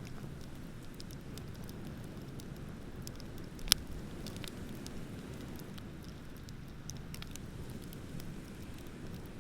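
Wood bonfire crackling: scattered small clicks and pops, with one sharp, loud pop a little over a third of the way in, over a steady low rumble.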